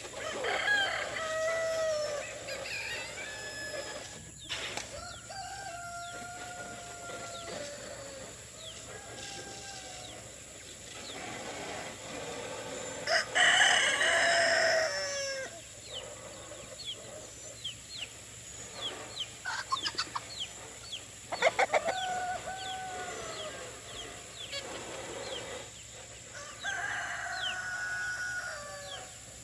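Roosters crowing again and again, about six long crows a few seconds apart, the loudest about halfway through, with hens clucking and short high peeps in between.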